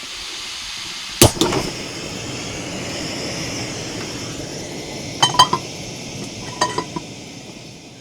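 A burger frying in a pan, a steady sizzle that fades near the end. It is broken by sharp metallic clinks of a utensil against the pan, once about a second in and in short clusters a little after five and near seven seconds.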